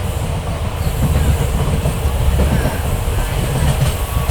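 Passenger train running, heard from on board: a steady low rumble of wheels on rails with irregular clatter, growing louder about a second in.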